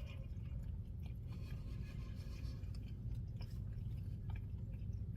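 A person chewing a mouthful of sandwich, with faint wet mouth clicks and smacks over a steady low hum of room noise.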